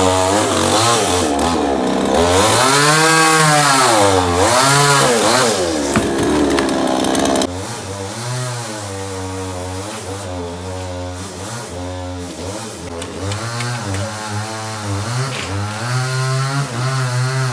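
A small petrol engine revving repeatedly, its pitch swooping up and down. About seven seconds in it drops suddenly to a quieter, lower, unsteady running.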